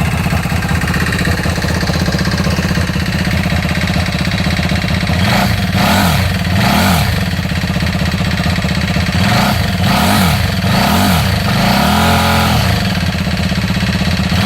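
KTM RC8 V-twin motorcycle engine running through a home-made exhaust on the stock headers, idling steadily and then blipped by the throttle: three quick revs about five seconds in, four more a few seconds later, and a longer rev near the end.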